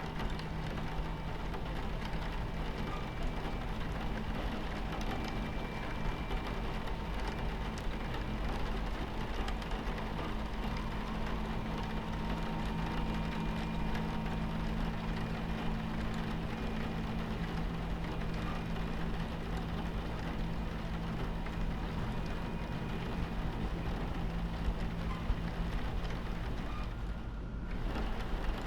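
Steady rumble of a train running on its tracks, with a low hum, mixed with rain pattering on the carriage window. Near the end the higher rain sound briefly drops away.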